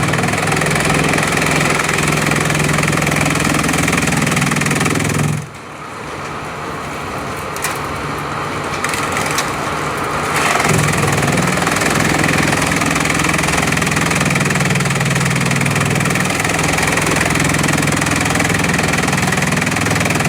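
Bamboo chipping machine running with a steady mechanical hum. About five seconds in it drops sharply in loudness, then builds back to full about ten seconds in.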